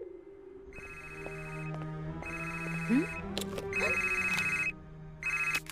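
A mobile phone ringtone ringing in four repeated bursts, each about a second long with short gaps, as a call goes unanswered. Background music plays underneath, with a brief rising tone about three seconds in.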